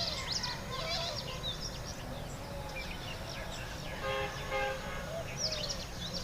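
Many small birds chirping and twittering, with a brief two-part horn-like tone about four seconds in over a steady low rumble.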